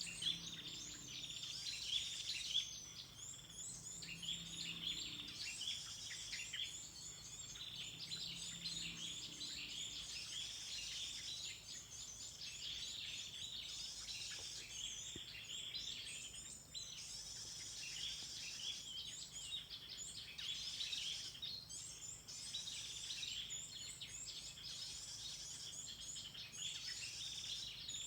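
Many small birds chirping and calling at once, a dense, continuous chorus of short high notes.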